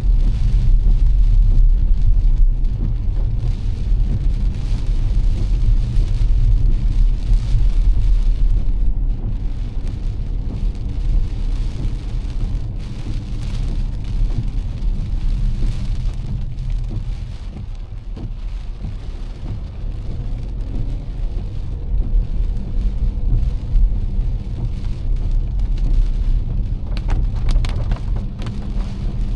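Heavy rain falling on a moving car, over a steady low rumble of tyres and engine on the wet road; a short sharper patch of noise comes near the end.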